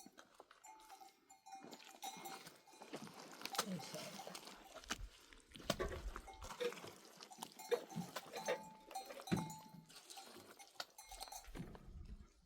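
Herd of goats and sheep with livestock bells clinking and scattered bleats.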